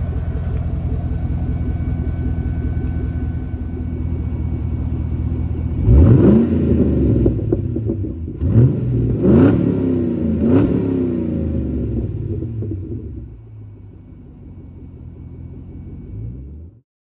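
Land Rover Defender engine idling steadily, then revved in about four quick throttle blips starting about six seconds in, each one rising and falling back to idle. It is quieter near the end and stops abruptly.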